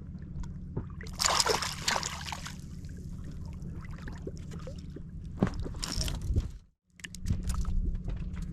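Water splashing and sloshing at a boat in two bursts, the first about a second in and the second past the middle, over a steady low hum.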